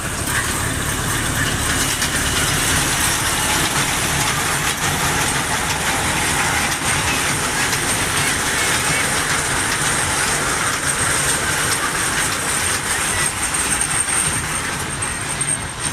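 Steady running noise of a small night-market amusement train ride heard from on board, its wheels and carriages rattling, with a thin high-pitched whine held steady over it.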